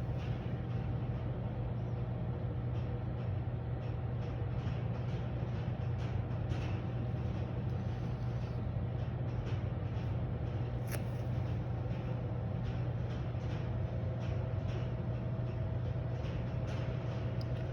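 Steady low hum of an industrial robot controller's cooling fans and electronics as it boots up after a power cycle, with a few faint clicks.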